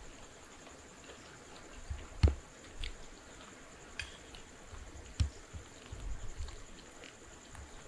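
Crickets chirring steadily, with a few scattered clicks and two louder knocks, one a couple of seconds in and one about five seconds in.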